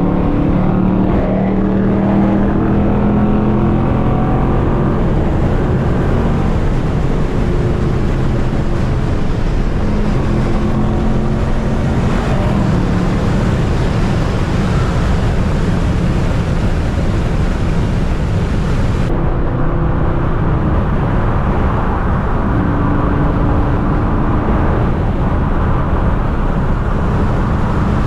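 Dodge Charger Scat Pack's 6.4-litre HEMI V8 running while driving, a steady low rumble with road noise, its pitch rising and falling a few times as the car speeds up and slows.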